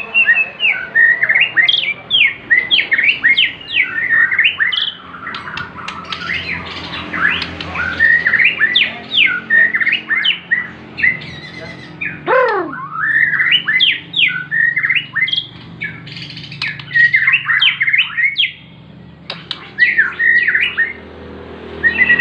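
Bornean shama (murai batu borneo) singing: loud, fast phrases of quickly rising and falling whistled notes, separated by short pauses, with one long downward-sliding note about halfway through.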